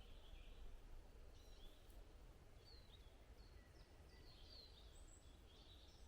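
Quiet forest ambience: faint, scattered high chirps and short calls of small songbirds over a low steady rumble.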